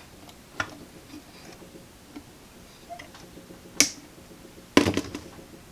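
Scattered sharp clicks and taps of small hand tools at work. The two loudest come about four and five seconds in, the last with a short ring after it.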